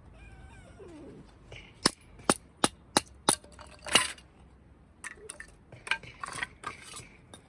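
Tableware and cooking utensils clinking: a quick run of about five sharp clinks, a louder clatter about four seconds in, then lighter scattered clinks and rustling.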